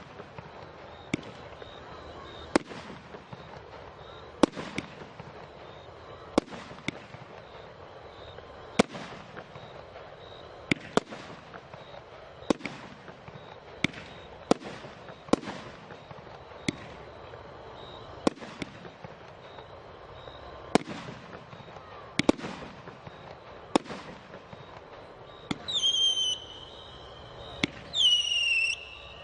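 Fireworks cake (torta) firing its shots: a run of sharp bangs at uneven intervals, roughly one every second or two. Near the end come two loud high whistles, each about a second long and falling slightly in pitch.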